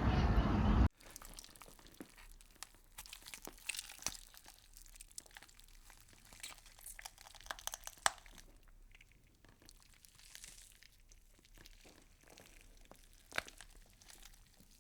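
A loud rushing noise cuts off about a second in. It is followed by faint, scattered crackling and crunching clicks, with sharper ones about four and eight seconds in and again near the end.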